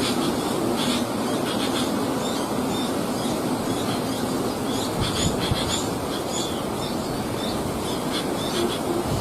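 Small birds chirping with short high notes over a steady rushing noise, with a quick run of low repeated calls near the start and again near the end.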